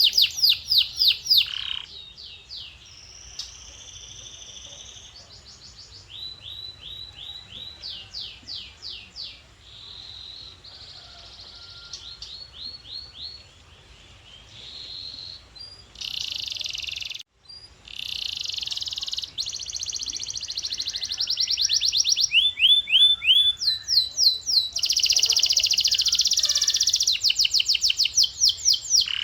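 Male domestic canary singing a long song made of rapid runs of repeated notes, each run changing pace and pitch every second or two. There is a brief break just past halfway, and the song grows louder in the last third.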